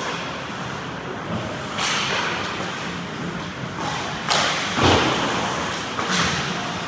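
Ice hockey play heard from beside the net: several sharp knocks and thuds of puck, sticks and boards, and noisy scrapes, over the steady hubbub of the rink. The loudest comes about four to five seconds in.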